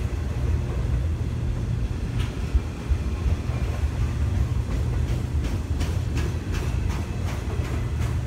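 Autorack freight cars rolling slowly past: a steady low rumble of steel wheels on the rails, with sharp clicks that come more often from about five seconds in.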